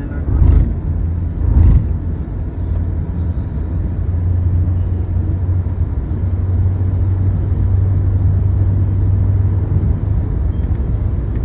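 Steady low rumble of a car running on the move, with two brief louder noises in the first two seconds.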